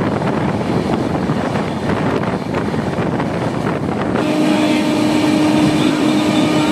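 A passenger express train running at speed, its rushing rail and wind noise heard from on board, with faint knocks. About four seconds in, a steady horn sounds and holds on.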